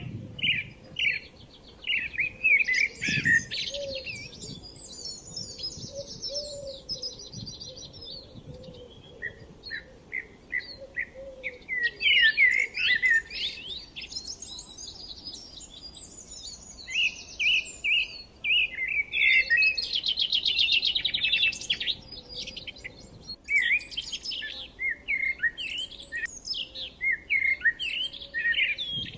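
Several forest birds chirping and singing together: overlapping short chirps and fast high trills, with no let-up.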